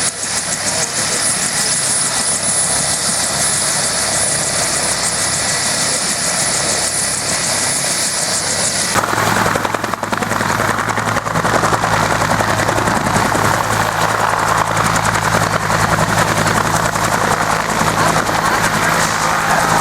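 UH-1 Huey helicopter running, its single turboshaft engine and rotor making a steady, loud noise. About nine seconds in, the sound changes abruptly to a fuller, lower noise with steady low tones.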